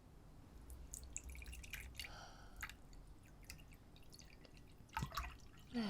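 A cold drink being poured, heard as scattered small clinks and liquid drips, with a sharper click about five seconds in.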